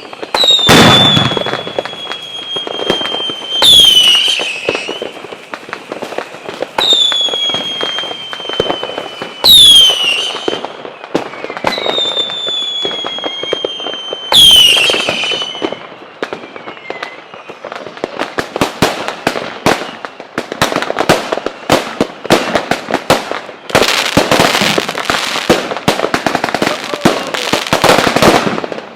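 Fireworks going off: a series of whistling fireworks, each starting with a sudden loud whistle that drops quickly in pitch and then holds a long, slowly falling tone for a few seconds. Over the second half, rapid crackling pops and bangs take over, densest near the end.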